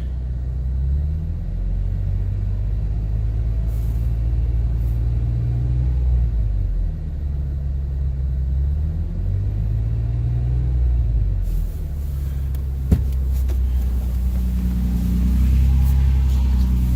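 Toyota Tacoma V6 idling, heard inside the cab: a steady low exhaust drone through a round straight-through Magnaflow muffler with no tailpipe, fairly quiet. The idle pitch wavers slightly, and there is one sharp click about three-quarters through.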